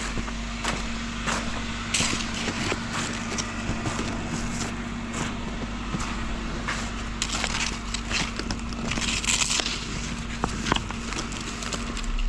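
Irregular crunching and crackling in deep, heavy snow, over the steady hum of an idling engine.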